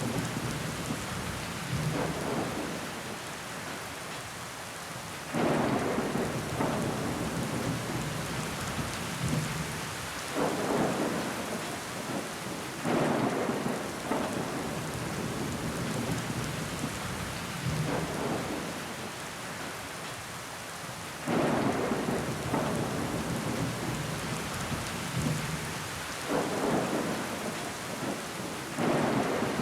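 Steady heavy rain pattering on window glass, with louder surges that come in suddenly every few seconds.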